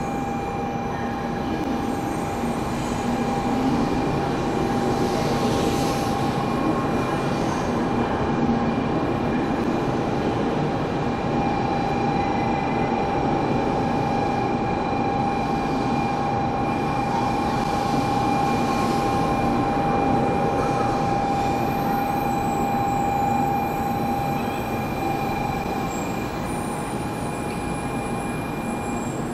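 Shinkansen bullet train moving along the platform, with steady running noise and a high whine that holds for most of the stretch and fades near the end.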